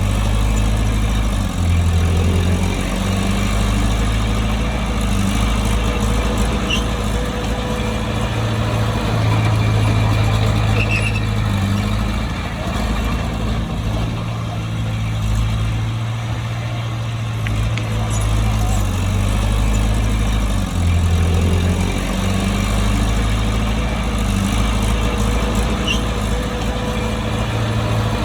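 Heavy diesel engine of a bulldozer running steadily, its pitch stepping up and back down a couple of times.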